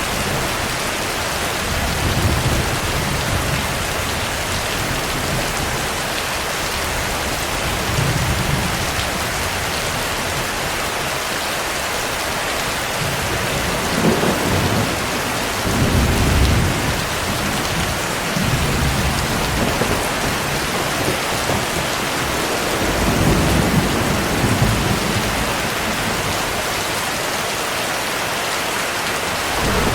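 Heavy rain falling steadily, with thunder rumbling low in the background several times, loudest about halfway through and again a little later.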